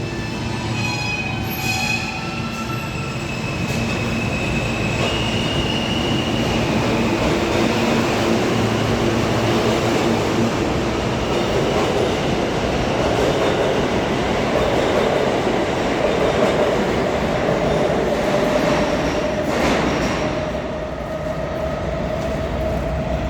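Alstom R160A New York City subway train running along the track, with a rumble of wheels on rail and high wheel squeal in the first few seconds. In the second half a steady tone slowly rises in pitch.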